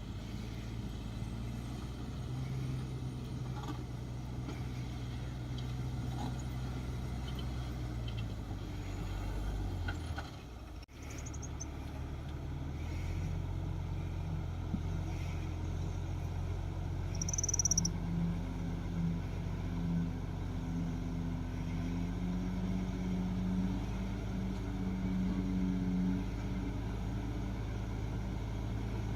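Shantui DH17C2 bulldozer's diesel engine running steadily. Its pitch sinks and the sound briefly dips about a third of the way in, then it settles back into a steady hum with a higher tone in it.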